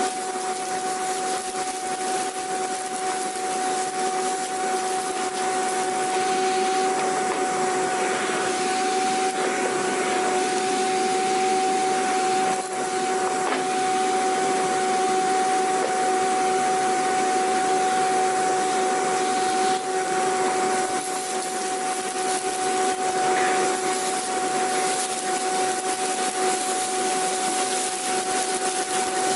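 Vacuum cleaner running steadily: a constant motor whine with a strong high tone over a rushing airflow hiss, with small dips in level a couple of times.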